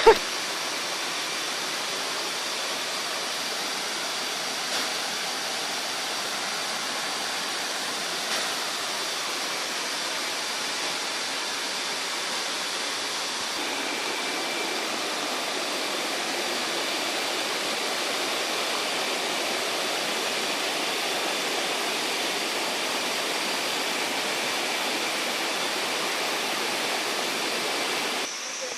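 Waterfall: water falling and rushing as a steady, even noise that does not change.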